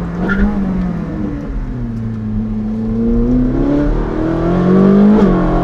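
Ferrari 458 Speciale's naturally aspirated V8 through a Novitec sport exhaust, its note falling as the car slows, then rising steadily under acceleration, with a quick drop in pitch at an upshift near the end.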